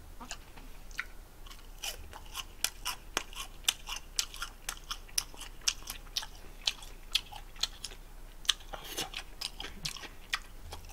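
A person chewing crisp food close to the microphone, a bite of battered, deep-fried seaweed roll (gimmari): a steady run of sharp crunches, about three or four a second, starting about two seconds in.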